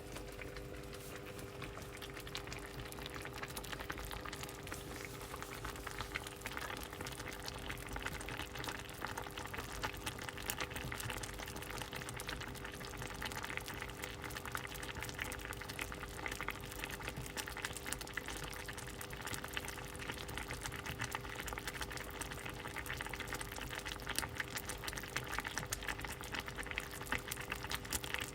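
Pot of soup at a steady boil: a dense, continuous crackle of popping bubbles, over a steady low hum.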